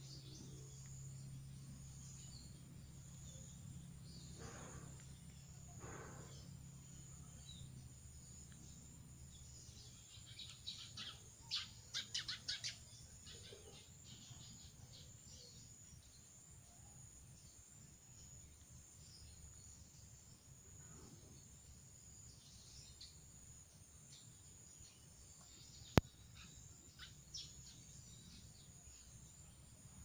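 Faint wild bird calls from the trees: a quick run of high chirps about a third of the way in and a few scattered chirps later, over a steady high hiss of insects. A single sharp click sounds near the end.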